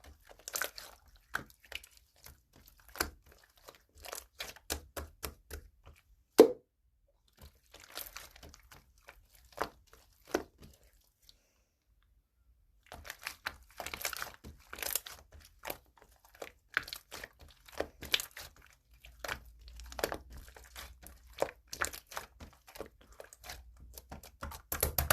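Sky-blue slime being squeezed, pressed and stretched by hand, giving rapid, irregular crackling and popping clicks, with a pause of about two seconds midway.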